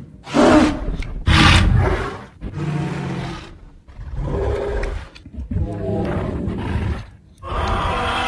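A string of roaring animal sound effects: about six separate growling roars, each about a second long, with short gaps between them.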